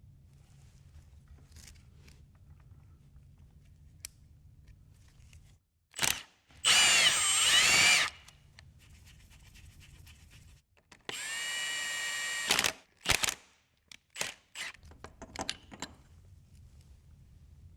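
Power drill run in two bursts: a whine of about a second whose pitch wavers, then a steadier whine of about a second and a half a few seconds later, with short clicks and knocks of handling in between.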